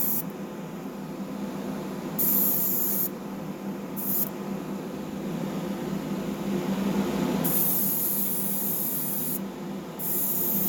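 Airbrush spraying metallic blue paint onto a small die-cast model car in four bursts of hiss, the longest about three-quarters of the way through, over the steady hum of a small air compressor.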